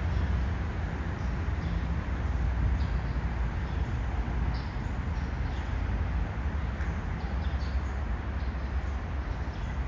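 Outdoor background noise: a steady low rumble, with a few faint high chirps in the middle.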